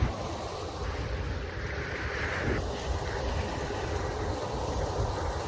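Wind buffeting the microphone with a steady low rumble, over the wash of water, with a brief louder hiss of water about two seconds in.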